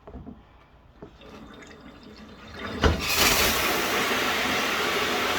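Faint handling and a knock, then about three seconds in the water comes on. A standard high-pressure shower head, its water restrictor removed, sprays with a steady loud hiss.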